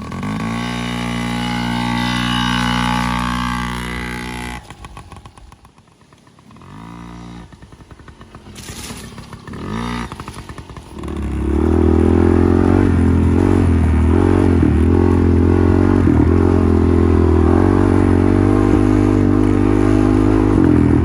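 Small two-stroke engine of a Yamaha PW kids' dirt bike. It revs up at the start and drops back at about 4.5 s. A couple of short throttle blips follow, then from about 11 s it runs loud and steady under throttle as the bike is ridden.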